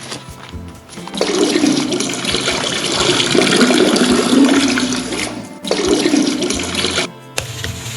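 Water rushing and gushing loudly for about four seconds, stopping briefly, then gushing again for about a second and a half.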